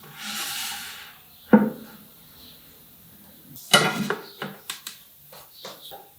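Woodworking handling sounds: a short scraping swish, a single knock, then after a pause a quick run of wooden clicks and knocks as tools and pieces are handled.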